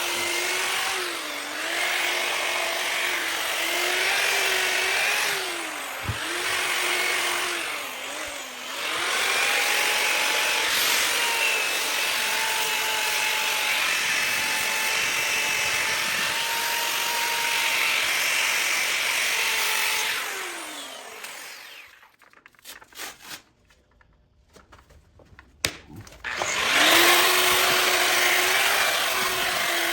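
Bauer variable-speed grinder running a sanding disc against a cast iron skillet, a steady motor whine over a gritty hiss, dipping in pitch several times. About 21 seconds in it winds down and stops, a few clicks follow, and about 27 seconds in it spins back up and carries on sanding.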